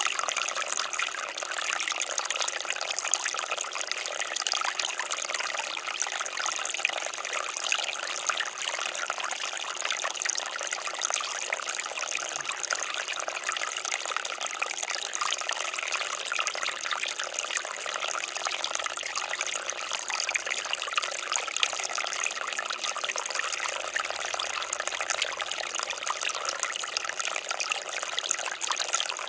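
Water fountain splashing and trickling in a steady, unbroken stream.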